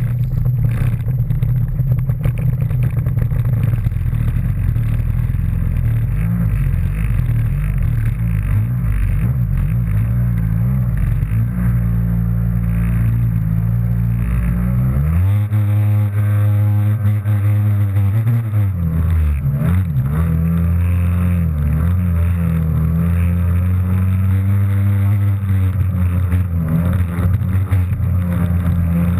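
Kawasaki JS300 stand-up jet ski's two-stroke engine running hard under a steady low rumble. From about halfway through its pitch rises and falls again and again as the throttle is worked.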